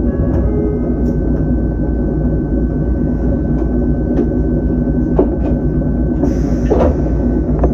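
Ohmi Railway electric train standing at a station, heard from the cab: a steady low hum from the car's equipment with a thin whine over it, a few sharp clicks, and a short hiss about six seconds in.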